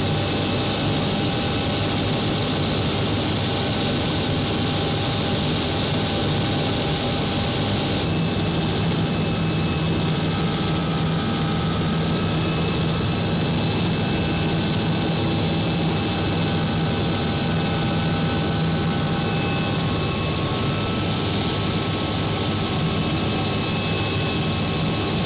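Helicopter in flight heard from inside the cabin: a steady engine and rotor drone with several steady high whining tones over it.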